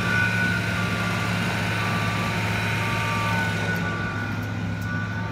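A vehicle's reversing alarm beeping about once a second over an engine running steadily.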